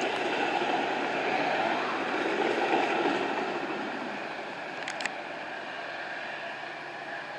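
Departing Metra commuter train rumbling away from the station, its noise swelling to a peak about three seconds in and then fading as it recedes. A short double click about five seconds in.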